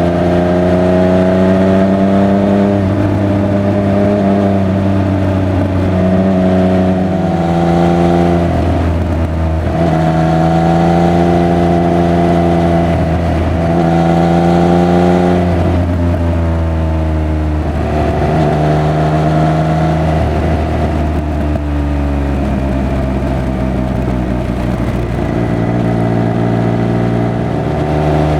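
Triumph Speed Triple 1200 RR's three-cylinder engine and exhaust under way, its note rising and falling over and over as the rider accelerates, shifts gear and rolls off the throttle.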